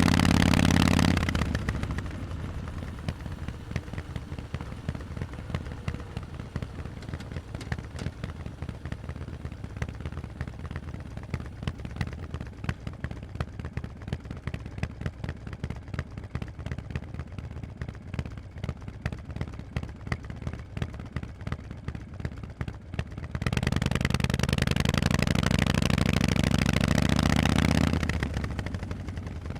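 Harley-Davidson Forty-Eight's air-cooled 1200 cc V-twin through Vance & Hines exhausts: under throttle at first, then the throttle closes about a second in and it idles with an even beat for about twenty seconds. It then pulls away loud, rising slightly in pitch, for about four seconds before the throttle rolls off near the end.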